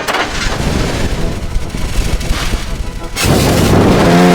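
Race car engines starting up and running together after the 'start your engines' call, distorted by heavy audio effects. Louder from about three seconds in, with a steady low hum.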